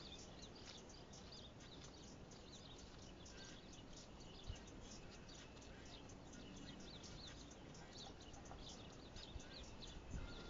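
Faint chirping of small birds, many short high calls in quick succession, with a single sharp knock about four and a half seconds in and a few low thumps near the end.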